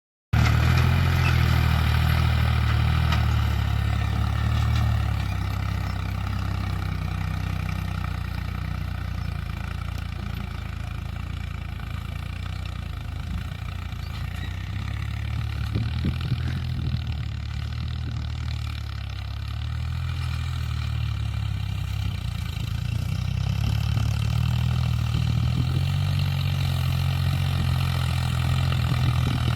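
Heavy diesel engine of a JCB backhoe or tractor running steadily at low revs, cutting in abruptly at the start and growing a little louder in the last third.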